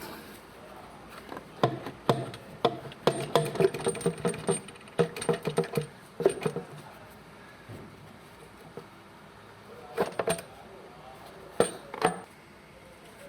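Small metal tools and parts clinking and clattering against each other in a quick run of sharp clicks for several seconds, then two more short clusters of clinks later on.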